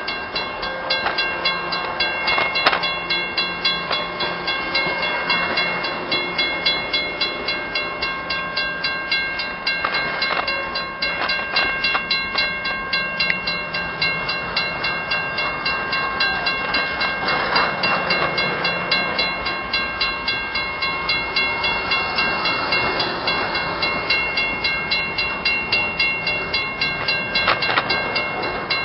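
Railroad grade-crossing bell ringing in rapid, even strokes while a train rumbles past.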